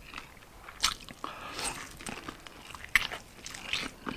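Close-miked biting and chewing of a crispy fried chicken wing in cheese sauce. Sharp crunches come about a second in and again about three seconds in, with chewing between.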